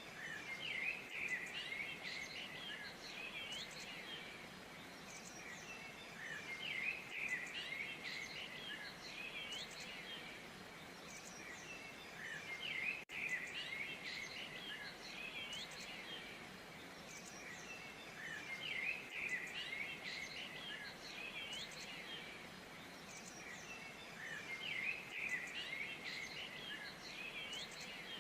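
Small birds chirping and singing in clusters of quick notes that recur about every six seconds, over a steady hiss of outdoor ambience.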